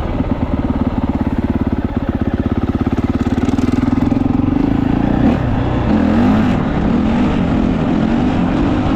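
Honda CRF450R dirt bike's single-cylinder four-stroke engine running under throttle, its pitch climbing for about five seconds, then dropping abruptly and rising and falling several times as the revs change.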